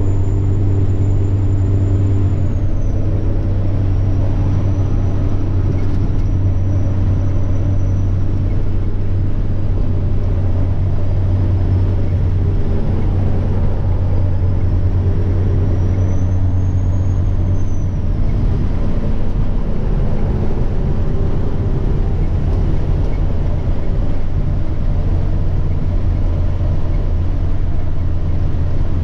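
Semi-truck diesel engine running steadily under way, with a thin high turbocharger whine over the engine drone. The whine drops in pitch a few seconds in, wavers, climbs briefly, then falls away and fades out about two-thirds of the way through.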